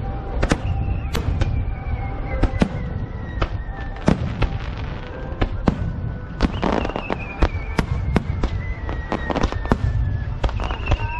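Fireworks display: aerial shells bursting in quick succession, a few sharp bangs each second over a continuous low rumble, with a burst of crackling about six and a half seconds in.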